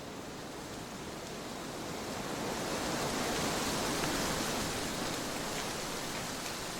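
Trade wind blowing as a steady rush of noise that swells into a gust about halfway through, then eases off.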